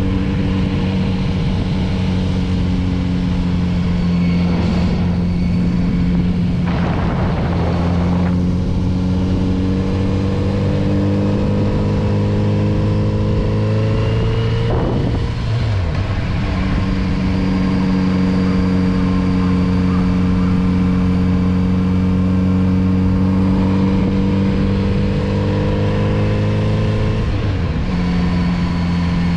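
Kawasaki Z900RS inline-four engine heard from the rider's seat while riding, the revs creeping up slowly through each gear. The pitch drops suddenly at upshifts, once about halfway through and again near the end. A brief rush of noise comes about a quarter of the way in.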